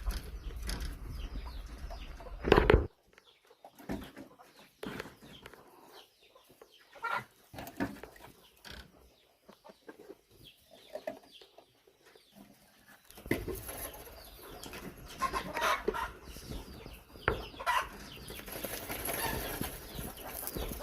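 Chickens clucking, with scattered short calls that grow busier in the second half. A loud thump comes about two and a half seconds in.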